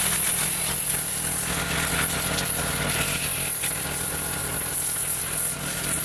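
Gas-engine pressure washer running steadily, its small engine droning under the high hiss of the water jet spraying.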